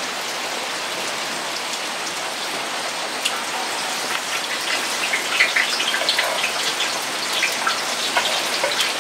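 Heavy rain falling, a steady hiss. From about four seconds in, crackling sizzles join it as shallots, green chillies, garlic and ginger are scraped into hot coconut oil in an uruli.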